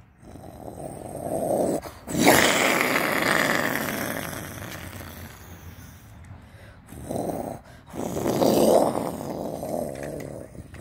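A person imitating jet planes flying past with their voice: growly whooshing mouth noises in several passes, each swelling and fading, the loudest about two seconds in.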